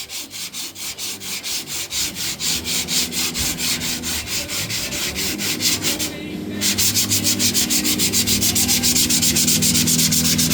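Sandpaper on a sanding block being rubbed back and forth by hand across a 1959 El Camino's steel tailgate, in quick, even strokes of about five a second. After a brief pause about six seconds in, the strokes come faster and louder.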